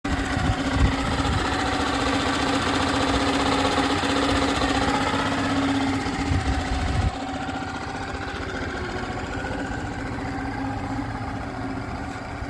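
Small 2.5 hp outboard motor running steadily with an even engine note. About seven seconds in, the sound steps down suddenly to a quieter, duller note and then holds steady.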